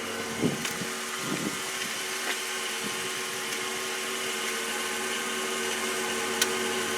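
A vehicle engine idling steadily, with a few faint clicks near the end.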